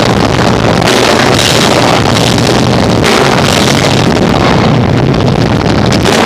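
Live rock band, with distorted electric guitar, bass and drums, playing very loud. The recording is overdriven, so the music comes through as a dense, distorted wash with a held low note underneath.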